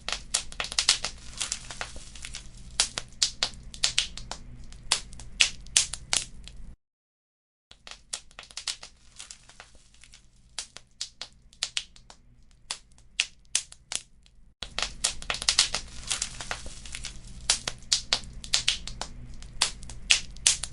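Wood fire crackling, with many sharp pops and snaps over a low rumble. The sound cuts out completely for about a second near seven seconds in, comes back quieter, and gets louder again at about fifteen seconds.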